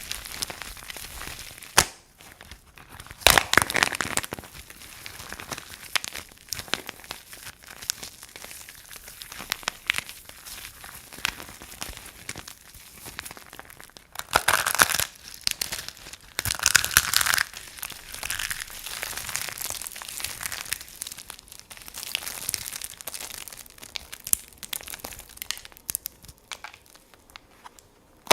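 Dry soap being crunched and crumbled, with dense continuous crackling. Louder crunching bursts come about three seconds in and twice more around the middle, with a single sharp snap near the start.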